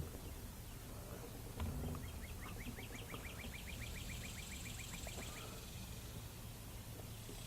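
A bird's trill: a rapid series of short rising chirps, about six a second, lasting some three seconds, heard faintly. A single knock comes just before it.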